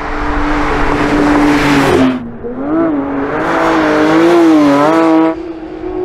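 Porsche 992 GT3's naturally aspirated 4.0-litre flat-six running hard on track, its exhaust note wavering up and down in pitch through the corners. The sound drops away sharply twice, about two seconds in and again after five seconds.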